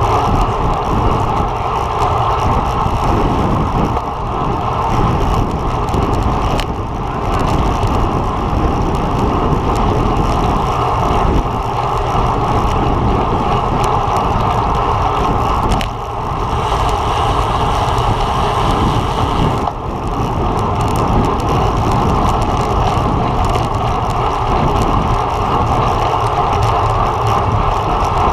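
Steady loud rush of wind and road noise on a camera riding along on a racing road bike, dipping briefly a few times.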